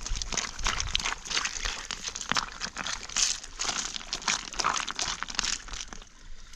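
Continuous rustling and crunching: a dense run of crackles, with no voice.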